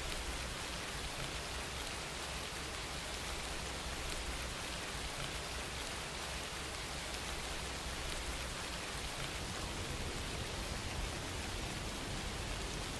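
Steady rain falling, an even hiss with no breaks or individual impacts standing out.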